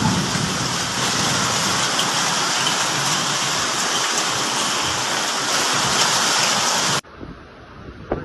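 Torrential rain pelting down in a storm, a steady dense hiss; it cuts off suddenly about seven seconds in, leaving a much quieter background.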